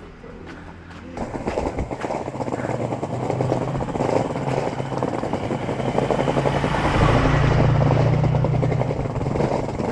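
Skateboard wheels rolling over rough street pavement: a rough, continuous rumble that starts suddenly about a second in, builds, and is loudest near the end.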